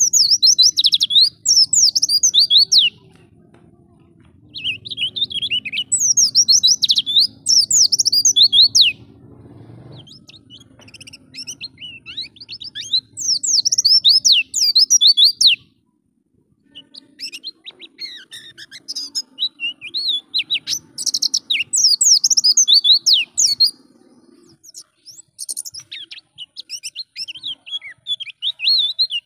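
White-eye (pleci) singing fast, high twittering phrases, about five bursts of a few seconds each with short pauses between them, over a faint low hum.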